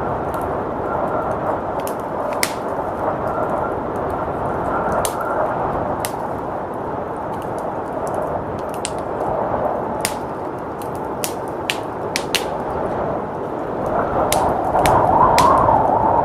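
Wood fire crackling, with sharp pops at irregular intervals, over a steady howling blizzard wind that swells louder near the end.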